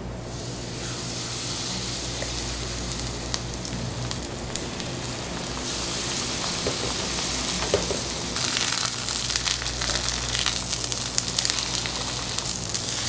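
Batter-coated napa cabbage leaves frying in oil on a hot electric griddle: a steady sizzle that starts as the leaf goes down and grows louder in the second half, with scattered small pops.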